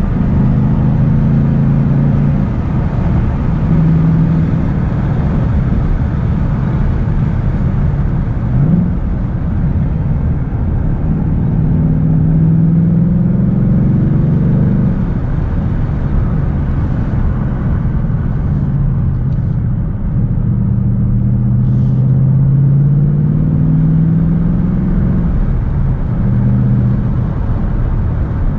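Ford Mustang GT's 5.0-litre V8 heard from inside the cabin while driving at moderate speed in third and then fourth gear. Its note rises and falls slowly with the throttle over a steady road rumble, with a brief sharp rev rise about nine seconds in.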